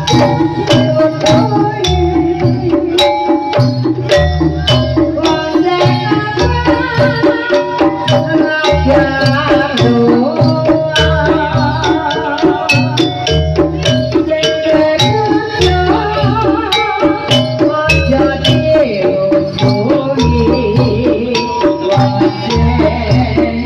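Live jaranan (kuda lumping) ensemble music: hand drums and percussion keeping a steady repeating beat under a wavering melody line.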